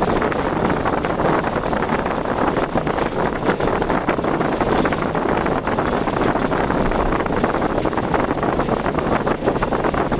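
Steady road and wind noise from a car driving along, with wind buffeting the microphone.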